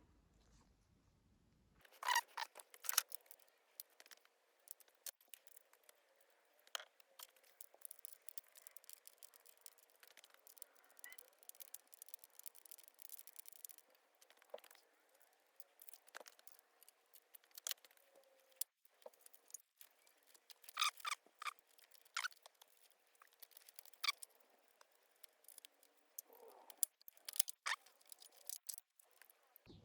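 Faint, irregular clicks, taps and scrapes of small metal parts and tools being handled while working on a motorcycle carburettor, with louder clusters about two seconds in and around twenty-one seconds in.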